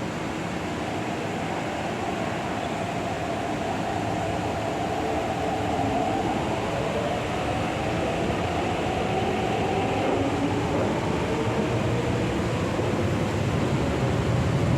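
Steady running noise of a moving vehicle, with a faint motor tone that drifts slowly up and down and grows a little louder near the end.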